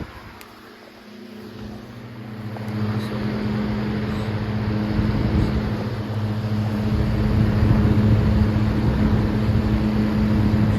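Antique 1934 Emerson 16-inch six-blade table fan running: a steady electric motor hum under the rush of air from the blades, growing louder over the first several seconds and then holding steady.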